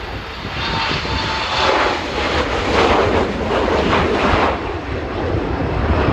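Airliner engines passing close by, swelling over the first second or two, loudest in the middle, then easing off. Gusty wind buffets the microphone underneath.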